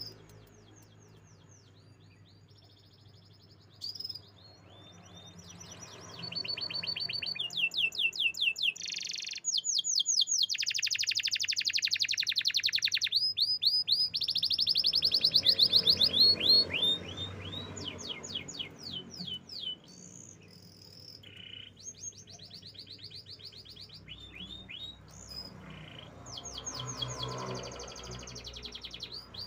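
Canary singing a long song: runs of quick, repeated, downward-sweeping chirps, changing phrase every second or two. The song is soft for the first few seconds and loudest in the middle, where it breaks into fast rolling trills.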